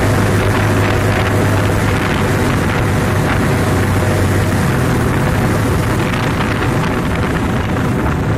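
Yamaha Vega underbone motorcycle's single-cylinder four-stroke engine running at a steady cruise while being ridden, with wind buffeting the microphone.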